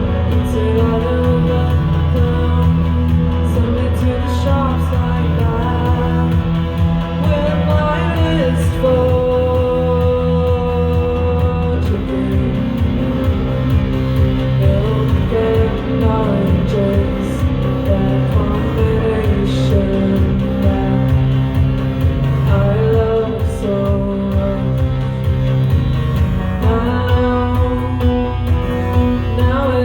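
Live band music: guitar over a low, steady bass line, with a sung vocal line on top.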